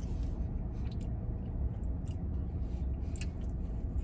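A man chewing a mouthful of doughnut burger with his mouth closed, with a few faint wet mouth clicks over a steady low rumble.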